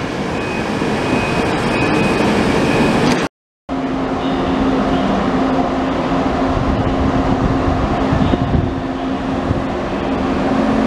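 Railway noise at a station platform, cut off abruptly about three seconds in. After a short gap, an ICE 1 high-speed train rolls slowly along the platform with a steady low hum.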